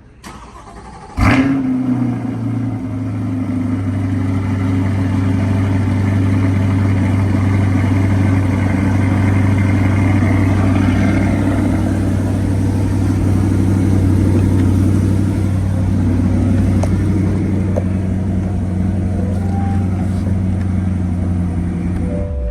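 Car engine with a dual-mode exhaust cold-started. The starter cranks briefly, the engine catches about a second in with a loud flare of revs, then settles into a steady idle.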